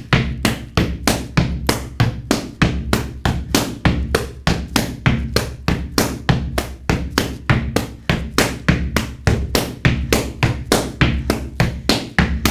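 Gumboot dance drill at its fastest speed: hands slapping rubber gumboots and legs in a fast, even rhythm of about five strikes a second, with a steady low backing music underneath.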